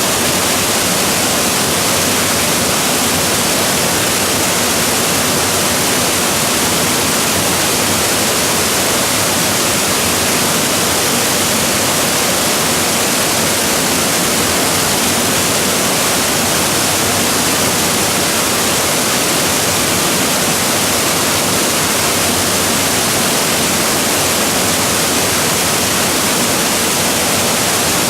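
Waterfall: a steady, loud rush of falling water, even throughout with no other events.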